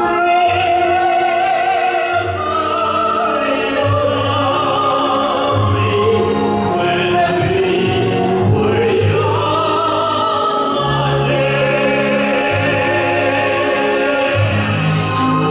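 Operatic-style singing with wide vibrato on long held notes over orchestral accompaniment with a steady bass line.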